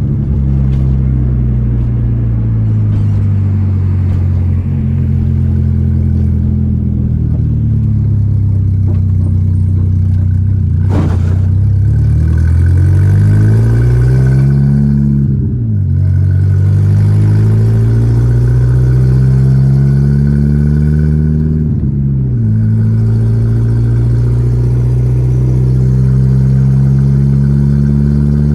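Volkswagen Gol G4 Rallye's four-cylinder engine on the move. Engine speed sinks slowly for the first ten seconds, then climbs under acceleration. It drops sharply at two upshifts about six seconds apart and pulls steadily again after the second. A single sharp click comes about eleven seconds in.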